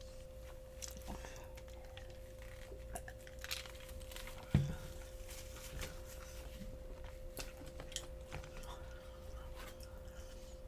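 Close-miked chewing of crispy fried chicken, with scattered crunches and one sharper knock about four and a half seconds in, over a faint steady hum.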